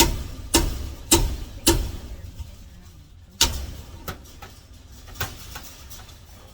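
A series of sharp knocks: four hard ones about half a second apart, then after a short pause one more hard knock followed by a few lighter ones.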